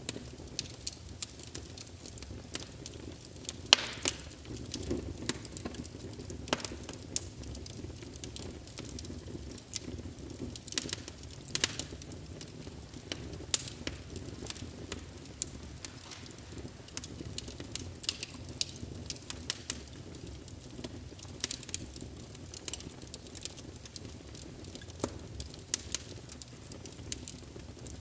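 Wood fire in a fireplace crackling: irregular sharp pops and snaps, several a second, over a low, steady sound of the burning logs.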